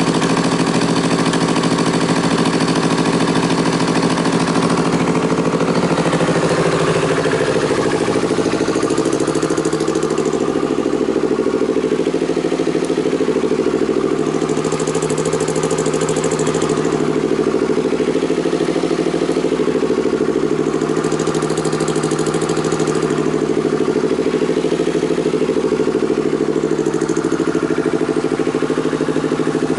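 Yamaha YZF-R25's 250 cc parallel-twin engine idling steadily through an aftermarket exhaust muffler.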